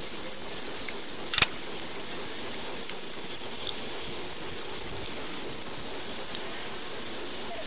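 Scattered light metallic clicks and clinks of hand tools and parts being worked on the car's distributor cap and rotor. One sharper click comes about 1.4 s in, over a steady hiss.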